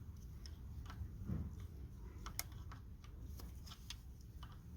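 Scattered light clicks and taps of hand tools working at a stuck front brake line fitting, with a soft low thump a little over a second in.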